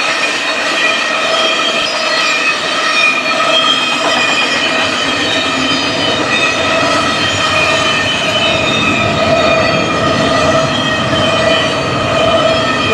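A train passing at close range: a steady rumble with a continuous high whine held throughout.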